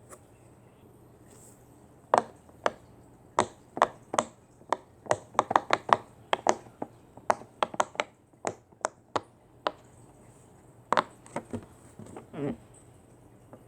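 A series of sharp, irregular taps or clicks, starting about two seconds in and coming thickest in the middle, with a few more near the end.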